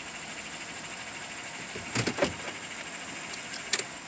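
Steady hum of a car idling, with a short clatter of clicks about two seconds in and a single click near the end.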